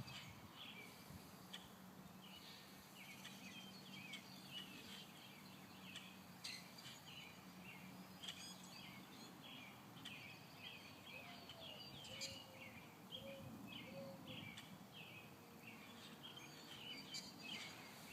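Small birds chirping faintly and repeatedly in short, quick calls.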